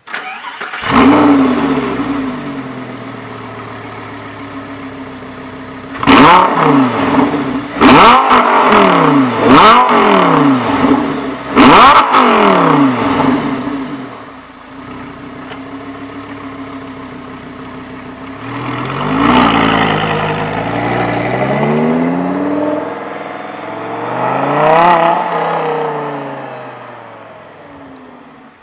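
Lamborghini Gallardo LP560-4's V10 engine firing up with a loud flare and settling to a steady idle. About six seconds in it is revved hard several times in sharp blips before falling back to idle. It then drives away, its note swelling and fading twice as it runs around at a distance.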